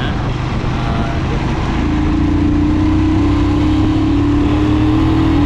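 Royal Enfield Himalayan motorcycle engine running on the move, with wind rush over a helmet-mounted camera. About two seconds in, a steady engine note comes in and rises slightly in pitch, as under acceleration.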